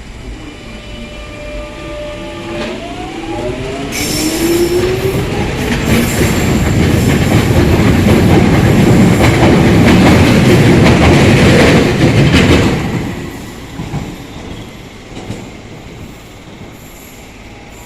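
Electric metro train passing close by. Its motors whine, rising in pitch as it picks up speed. A brief high wheel squeal comes about four seconds in, then a loud rumble of wheels on rail builds, peaks and fades away over the last few seconds.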